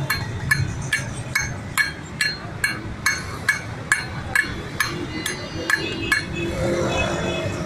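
A hammer striking metal in a steady rhythm, about two ringing clinks a second, stopping about six seconds in, during the fitting of a motorcycle's brake shoes.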